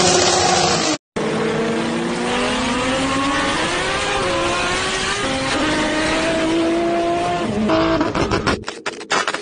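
Tire burnout noise cuts off about a second in. It is followed by a Toyota Supra MK4's 2JZ inline-six pulling hard on a highway, its pitch climbing steadily and stepping down once about five seconds in at a gear change. The sound turns choppy near the end.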